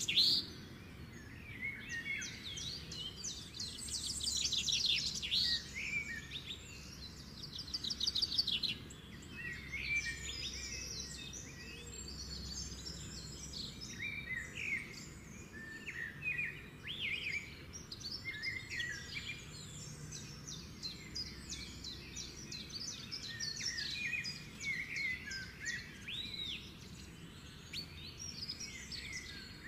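Small birds chirping and trilling, many short calls overlapping, with a few fast rattling trills early on, over a faint low hum.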